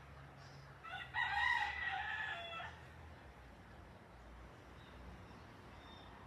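A rooster crowing once, a single call of about a second and a half starting about a second in.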